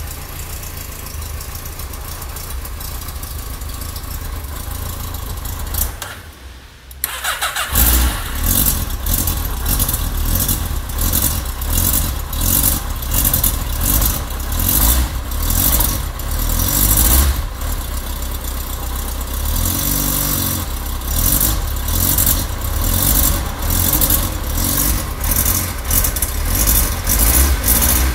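Yamaha XJ600 Diversion's air-cooled inline-four running through a new aftermarket exhaust. It runs steadily, drops away for about a second and a half around six seconds in, then comes back louder, the revs rising and falling again and again.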